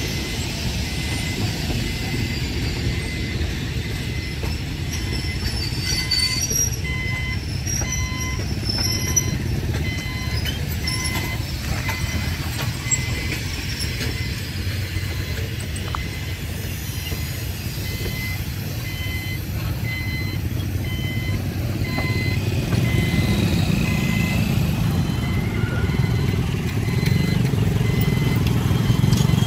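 Passenger train coaches rolling past with a steady rumble, while the level crossing's warning signal sounds a high electronic beep over and over at an even pace. In the last several seconds, motorcycle and scooter engines grow louder as waiting traffic starts across the tracks.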